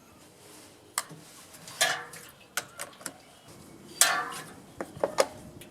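Hard parts being handled during small-engine reassembly: a run of scattered sharp clicks and knocks, with two short scraping rattles about two and four seconds in.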